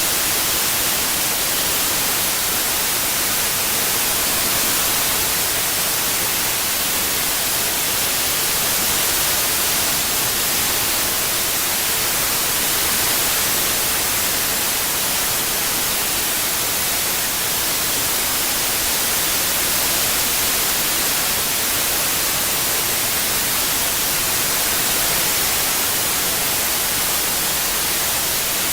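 Steady, loud white noise: an even hiss across the whole range with no tones or events, a tinnitus masking track.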